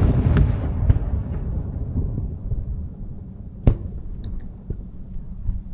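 Aerial fireworks shells bursting: a loud bang right at the start whose boom rolls on for about two seconds, then a second sharp bang a little past halfway, with a few faint cracks between.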